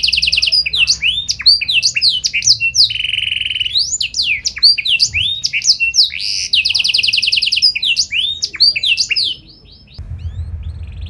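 Domestic canary singing a long, loud song of fast rolling trills and rising and falling whistled notes, with a buzzy trill about three seconds in. The song stops about nine seconds in.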